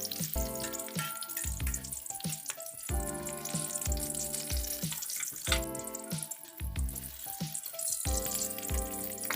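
Food sizzling as it fries in hot oil, under background music with a steady beat.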